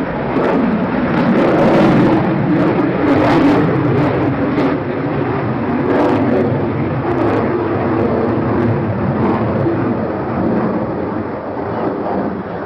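Aircraft engine noise at an airshow, steady and loud, with a few sharp crackles in the first half.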